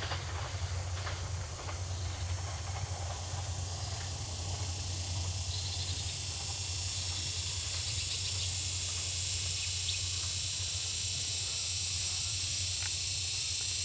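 Diesel passenger train receding into the distance: a few faint wheel clicks in the first second or so, then a steady low hum and a high hiss that grows stronger over the second half.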